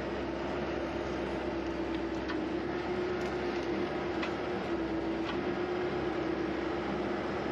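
Skid steer running steadily, a constant engine hum that holds one pitch, with a few faint clicks over it.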